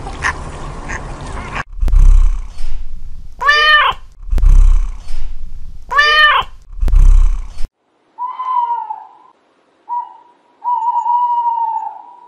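A ginger kitten meowing twice, each meow rising and then falling in pitch, between loud low rumbling swells that come about every two and a half seconds. Then a burrowing owl gives three drawn-out, slightly wavering high calls.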